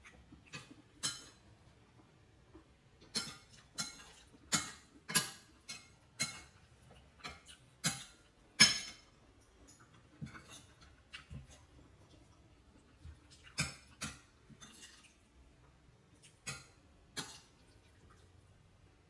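Kitchen utensils and dishes clinking and knocking in irregular single strikes, some with a short ring, the loudest a little before the middle.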